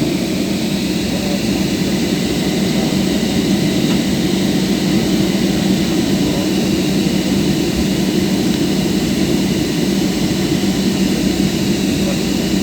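Steady jet airliner noise heard inside the passenger cabin after landing: a constant engine and air hum with a few faint steady tones and no change in level.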